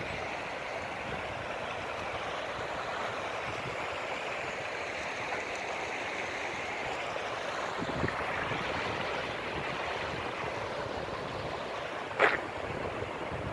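Floodwater rushing steadily at a flooded road bridge, with a short sharp knock or splash about twelve seconds in.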